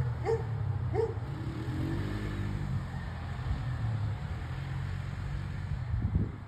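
ATV engine running steadily at low revs, with three short high squeaks in the first second. The engine hum fades near the end.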